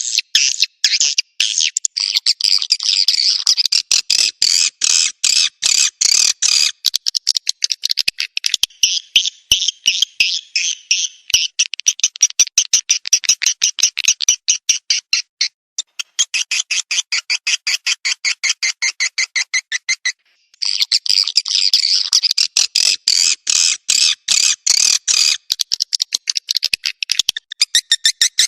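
Swiftlet calling sound played back from a recording: fast, dense twittering chirps repeating without pause, with a brief break about twenty seconds in. It is a lure call meant to attract swiftlets to a nesting house.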